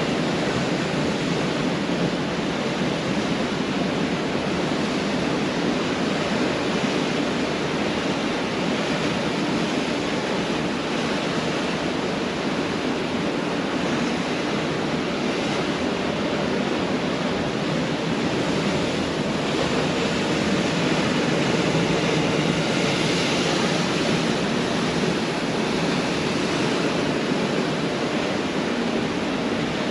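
Pacific Ocean surf: waves breaking and washing up the beach in a steady, continuous wash of water noise, swelling a little about two-thirds of the way through.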